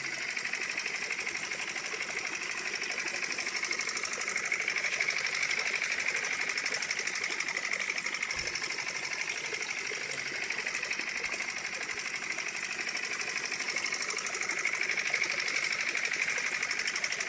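Small motor of a DIY model tractor and water pump running steadily, a fast even buzz with a light rattle.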